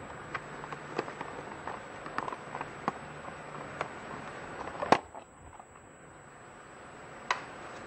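Clear plastic blister pack of small screwdrivers crackling and clicking as it is handled and turned over in the hands, a run of short sharp clicks with the loudest snap about five seconds in, then one more click near the end.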